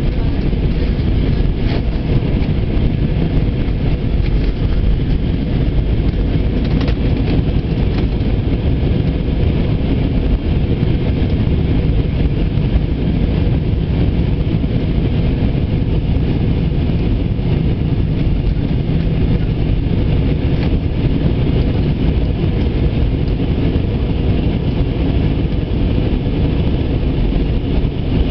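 Steady, loud noise of the engines and rushing air heard inside the cabin of an Airbus A320 in flight.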